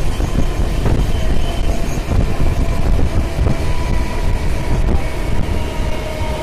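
MEMU electric multiple-unit train running on the track: a loud, steady rumble, with faint steady high tones coming in about four seconds in.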